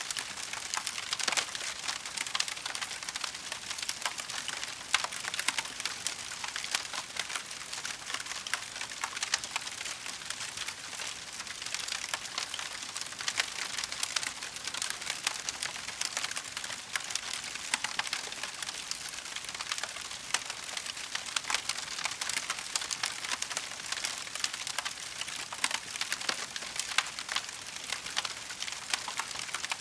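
Wood fire crackling: a steady, dense stream of small pops and snaps over a soft hiss, with occasional louder cracks.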